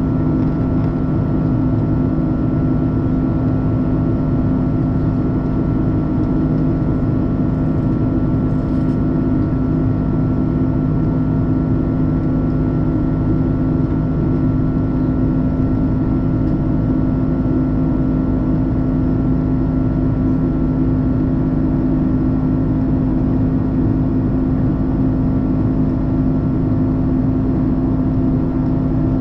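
Steady cabin drone of an Airbus A330-343 in flight, heard from a window seat inside the cabin: engine and airflow noise with several steady hum tones that do not change.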